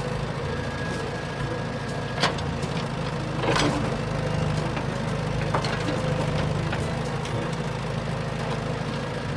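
Remote-control construction vehicle running with a steady engine-like rumble, with a few sharp clicks about two, three and a half, and five and a half seconds in.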